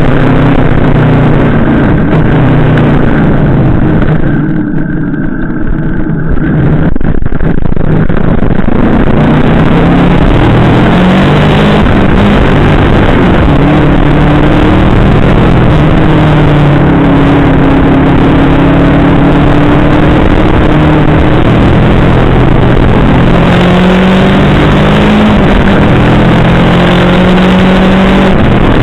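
Yamaha VMAX 1700's V4 engine running on the move, its pitch rising and falling with the throttle, under heavy wind rush on a bike-mounted camera. It eases off for a few seconds about four seconds in, then pulls again.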